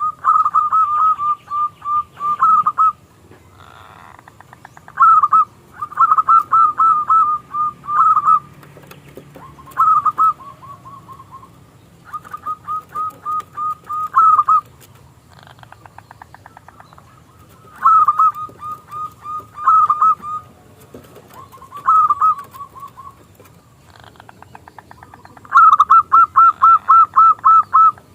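Zebra dove (perkutut) singing: phrases of rapid, staccato cooing notes, repeated in bursts of one to three seconds with short pauses between.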